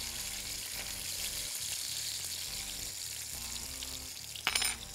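Frozen beef chapli kebabs frying in shallow oil in a pan, with a steady sizzle. A brief, louder burst of sizzle comes about four and a half seconds in.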